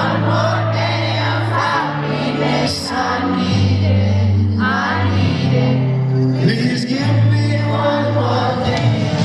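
Live concert performance of a slow pop/R&B song: sung vocals over long held low bass chords that change every second or two.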